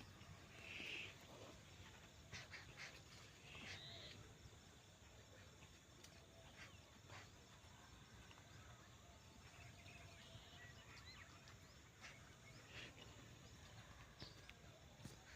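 Near silence: faint background noise with scattered faint clicks and a few brief, high, chirp-like blips.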